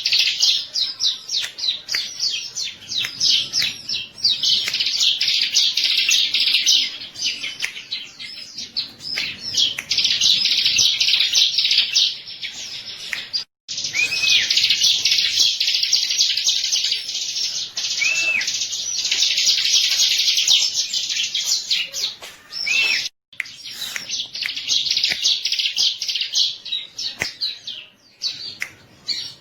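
Bar-winged prinia (ciblek) singing a fast, continuous chatter of rapid high chirps, with a few looping whistled notes in the middle. The song cuts out completely for a moment twice.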